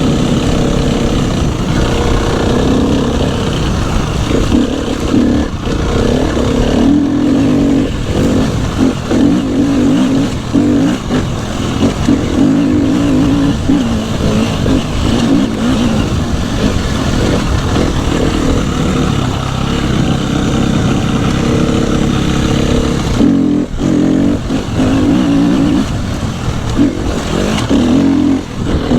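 A 250cc dirt bike engine ridden on a trail. The rider keeps opening and closing the throttle, so the engine note rises and falls all the way through, with brief let-offs about five, seven, eleven, twenty-four and twenty-eight seconds in.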